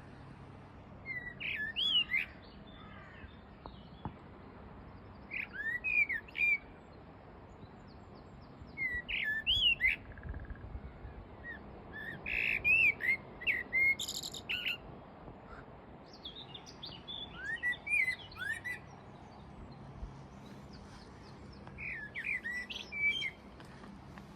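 Common blackbird singing: six short, fluting phrases spaced about four seconds apart, some ending in higher, squeaky notes.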